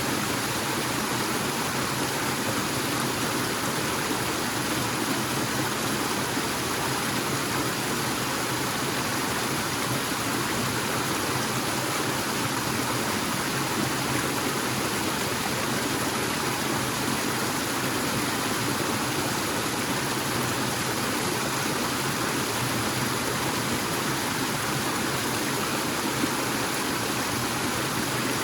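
Forest waterfall: water falling and rushing in a steady, even roar.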